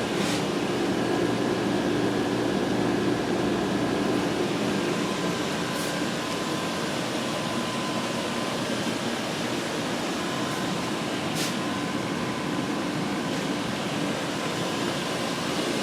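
WaterFurnace geothermal heat pump running with a steady fan-like whoosh and hum, with faint clicks three times, about every five and a half seconds.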